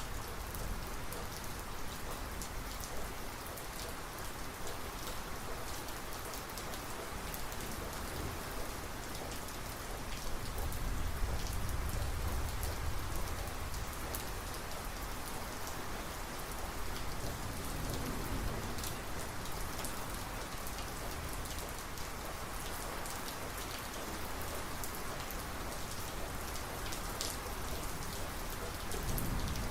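Heavy rain pouring steadily on surfaces during a thunderstorm, with fine pattering drops. A low rumble of thunder swells about ten seconds in.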